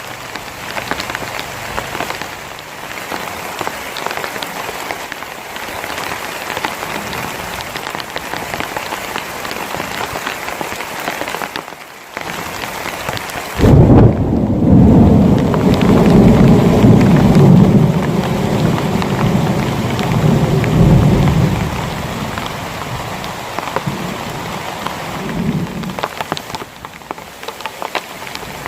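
Heavy rain falling steadily. About halfway through, a loud thunderclap breaks in suddenly and rumbles for several seconds before fading back under the rain.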